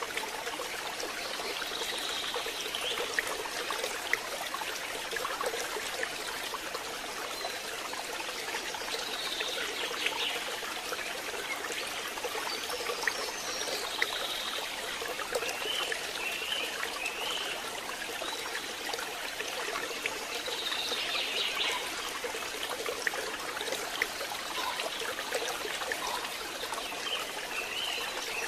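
Steady hiss of rain, with faint high chirping calls now and then.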